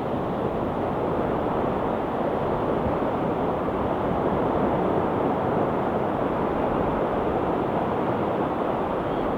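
Steady wash of ocean surf breaking on a rocky shore, an even rushing noise with no separate wave crashes standing out.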